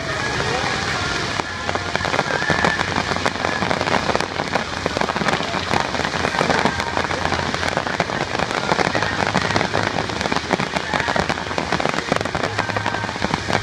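Fireworks crackling: a dense, continuous stream of small rapid pops, like heavy rain, from crackle-effect shells bursting overhead. It grows busier about a second and a half in.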